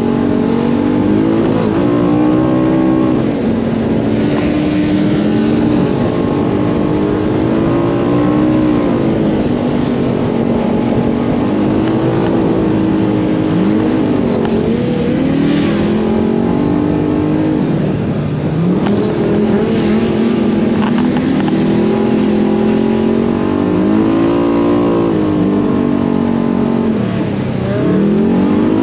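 Side-by-side UTV engine running under throttle. Its revs climb and fall again and again, every few seconds.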